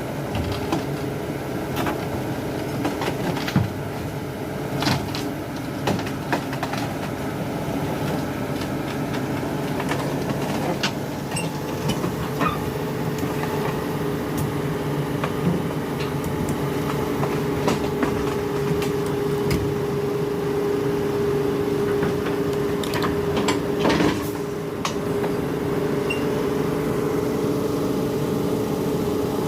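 Heavy diesel engine running steadily, with scattered metallic clanks and rattles.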